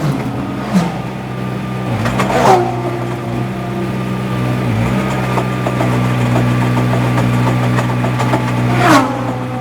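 GT3 race car engine running at a steady, low engine speed, heard from the cockpit. Three brief sweeping swells cut across it: at the very start, about two seconds in, and near the end.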